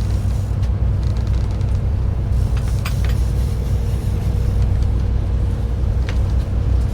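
Boat engine running steadily: a low rumble with a constant hum over it. A few faint clicks come about three seconds in and again near the end.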